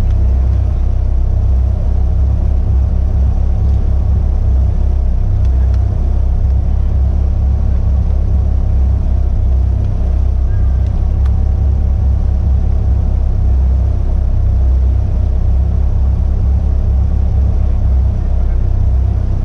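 Caterham Academy race car's 1.6-litre Ford Sigma four-cylinder engine idling steadily: a loud, even low rumble with no revving.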